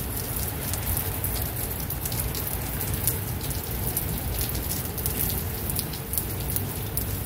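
Rain falling steadily: an even hiss dotted with many small drop ticks, over a low rumble.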